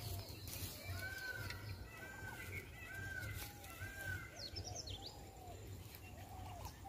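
Birds calling: a run of short, arched whistled notes repeated several times, with a few quick high chirps about four and a half seconds in, over a faint steady low rumble.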